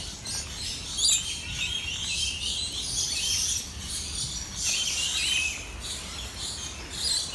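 Many birds chirping and twittering at once in a dense, continuous chorus of short high calls and whistled notes.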